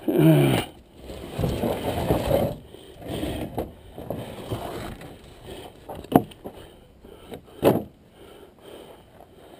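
Objects being handled and shifted: a brief falling squeal at the start, then scraping and rattling, and two sharp knocks, one about six seconds in and one about a second and a half later.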